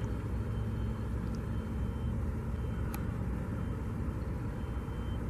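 Heavy construction equipment running in a steady low rumble, with a high-pitched beep tone switching on and off in short stretches, like a machine's backup alarm, and a single faint click about three seconds in.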